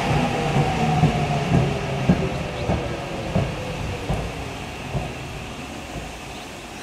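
Saitama Railway 2000 series electric train running past and fading away, its wheels knocking over rail joints, with a motor whine falling in pitch.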